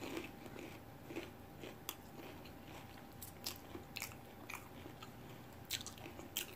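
Faint close-up chewing of a mouthful of crunchy tostada bowl, with soft, irregularly spaced crunches and mouth clicks.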